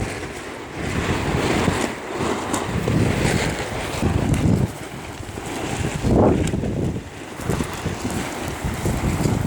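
Storm wind blowing in strong gusts, buffeting the microphone. The rushing noise swells and eases every second or two, with its strongest gust about six seconds in.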